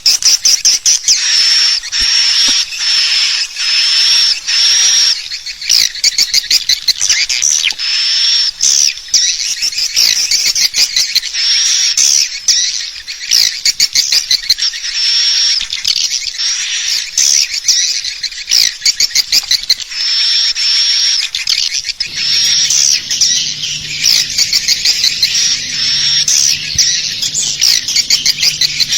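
Swiftlet lure-call recording: a dense loop of high, repeated swiftlet chirps alternating with rapid twittering trills, the sound played to draw swiftlets into a nest house. A steady low hum comes in about two-thirds of the way through.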